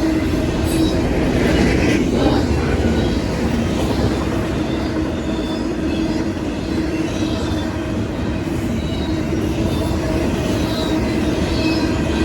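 Train cars rolling past: a steady, loud rumble of wheels on the rails, with thin steady high tones above it.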